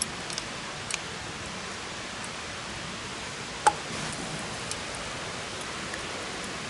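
Campfire burning: a steady hiss with a few faint crackles and one sharp pop a little over halfway through.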